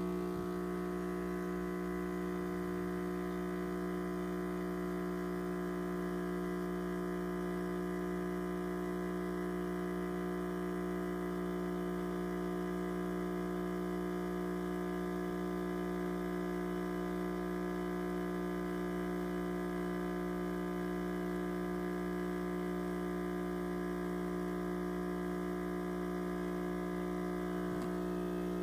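Breville Dual Boiler espresso machine giving a loud, steady buzz that holds unchanged, a strong hum with many overtones. The owner takes the noise for a sign the six-month-old machine is failing, though its pressure is still good.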